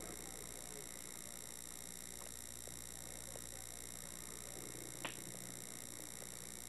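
Quiet background: steady hiss and faint hum of an old camcorder recording, with one short click about five seconds in.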